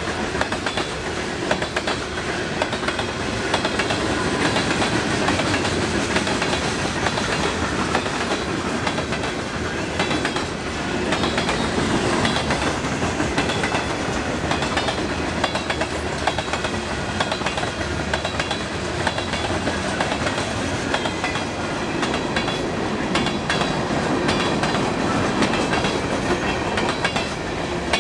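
Railroad cars of a passing train rolling by, their wheels clicking steadily over the rail joints.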